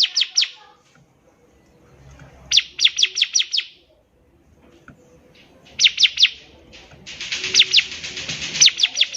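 Bar-winged prinia singing in short bursts of fast, sharp notes, each note sweeping down in pitch, several notes a burst, with brief pauses between bursts. Near the end comes a longer, denser burst of about two seconds with a rasping hiss under the notes.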